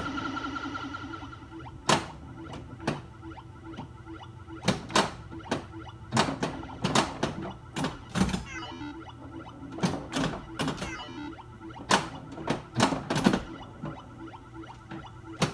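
Pinball game in play: electronic sound effects from a Bally Squawk & Talk replacement sound board, several playing over one another on top of a steady background drone. Sharp mechanical knocks from the playfield come at irregular intervals through it.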